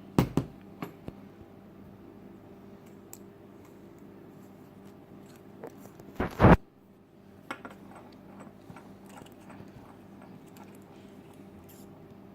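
Small metal and glass parts of a rebuildable vape atomizer being handled, with light clicks and a few sharp knocks; the loudest knock comes about six seconds in, followed by a run of faint clicks.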